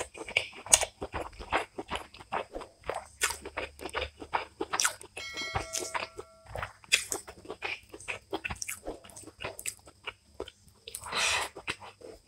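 Close-up eating sounds: a mouthful of rice and green-bean veg fry being chewed and crunched, with wet smacking in quick, irregular succession.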